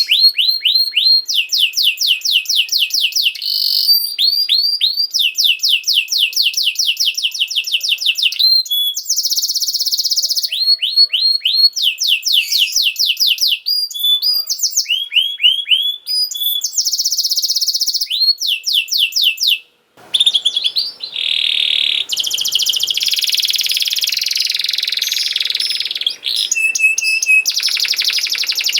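Domestic canary singing: fast trills of rapidly repeated down-sweeping notes, switching to a new phrase every second or two. The song breaks off briefly about two-thirds of the way in and resumes over a hissier background.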